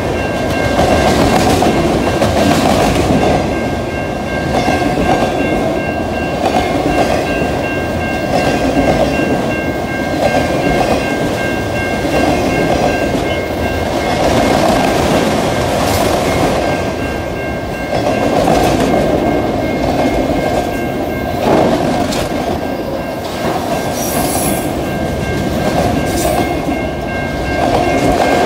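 Freight train cars rolling past a grade crossing, their wheels clattering over the rail joints in swells every couple of seconds, with a sharp clank about three-quarters of the way through and a brief high wheel squeal soon after. A steady high ringing from the crossing signal runs beneath for most of the time.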